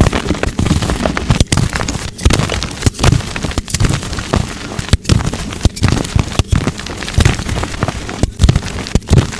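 Blocks of dyed gym chalk snapped and crushed by hand: dense, crunchy crackling packed with sharp snaps, broken by frequent abrupt cuts.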